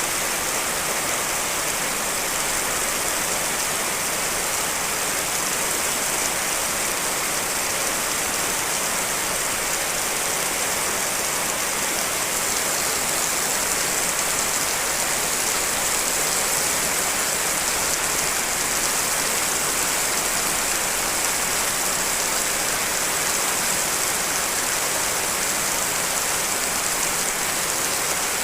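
Steady, dense rainfall: several real rain recordings layered into one even hiss, bright and high-pitched.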